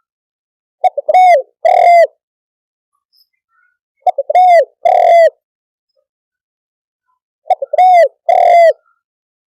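Spotted dove cooing its call three times, about every three and a half seconds. Each call is a couple of quick short notes followed by two longer, arched coos.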